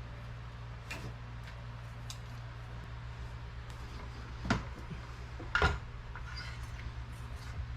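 A steady low hum with a few scattered knocks and clatters of work, the two loudest about four and a half and five and a half seconds in.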